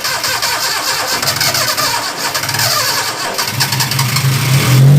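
A 1990 Maruti Suzuki 1000's engine being cranked by its starter motor without firing, after sitting unused for years; the cranking gets louder toward the end.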